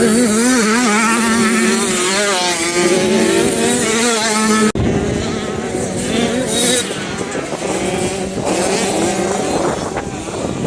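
Motocross bike engines revving, the pitch rising and falling as the throttle opens and closes, with an abrupt cut a little under halfway through.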